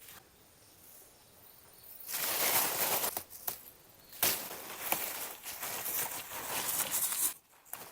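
Rustling and crackling noise with sharp clicks, starting about two seconds in and stopping shortly before the end, over a faint steady insect buzz.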